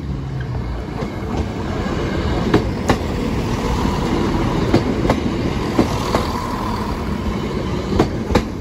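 Train passing over a level crossing at close range, a steady rumble of wheels on rail with sharp clicks in pairs every few seconds as the wheelsets cross rail joints.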